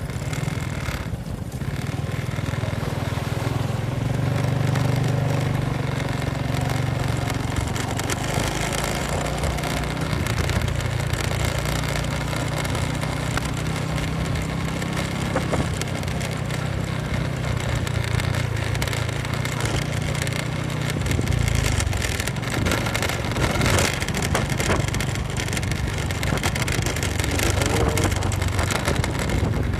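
Motorcycle engine running under way, its note rising and falling with the throttle, with wind noise on the microphone that grows stronger late on.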